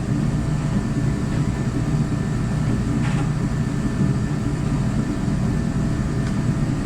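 Steady low drone of running machinery in a workshop, with a faint short noise about three seconds in.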